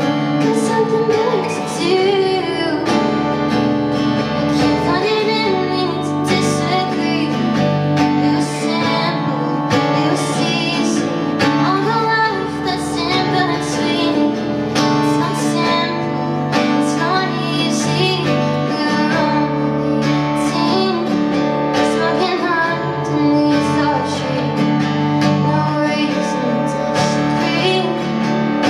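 Live pop song: a woman singing over guitar with a steady low bass line.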